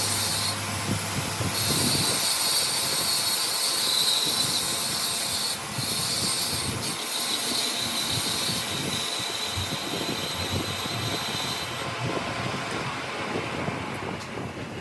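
Steady, high-pitched hissing noise of metal being worked in a repair shop, broken by a few short pauses and stopping about twelve seconds in.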